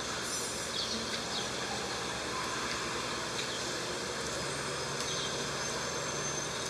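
Steady background noise, with a few brief, faint high chirps.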